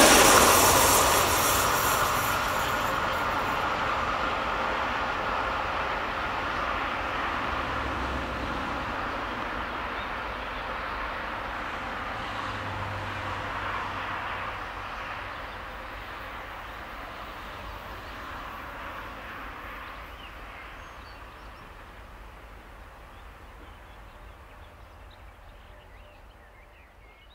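A train running away along the track, the noise of its wheels on the rails fading steadily until it is faint.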